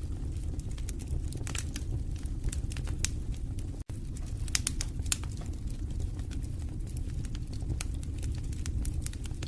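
Wood fire crackling in a fireplace: irregular sharp snaps and pops over a steady low rumble, with a brief dropout about four seconds in.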